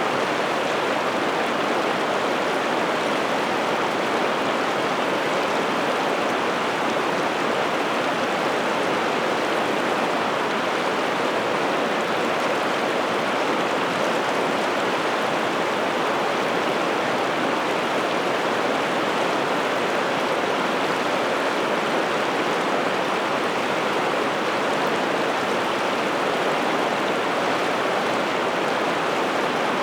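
Piteälven river water flowing in a steady, even rush.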